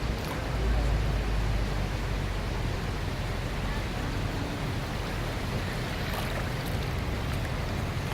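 Steady rain, a continuous hiss of falling water, with a low rumble for the first second or so.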